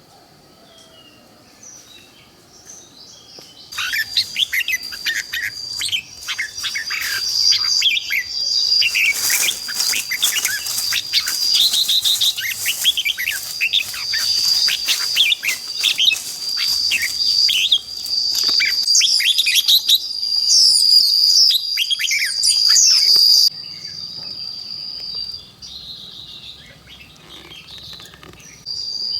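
A flock of birds chirping together in rapid, overlapping downward chirps, over a steady high insect-like drone. The chirping starts abruptly about four seconds in and cuts off suddenly near the end, leaving the drone.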